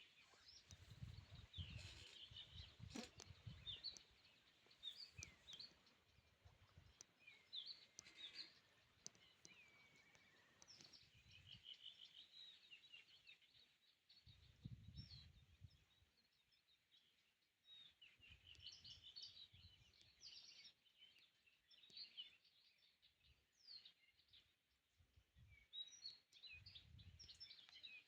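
Faint songbirds chirping and twittering on and off, many short high calls, with a few low rumbles coming and going, the strongest near the start.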